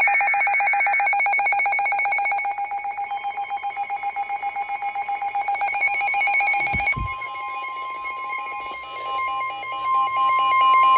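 NOAA Weather Radio alert: an electronic alarm tone with a pulsing, ringing quality, then about seven seconds in a single steady warning alarm tone takes over. It is the signal that a warning, here a tornado warning, is about to be read.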